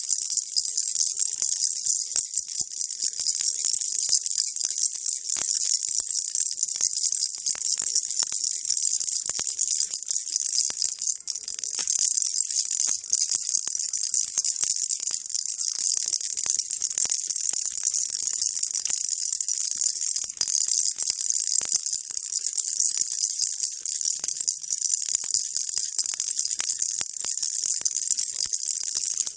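Baby rattle shaken continuously, a dense, steady, high-pitched rattling of many small clicks with no pauses, played as a white-noise soothing sound.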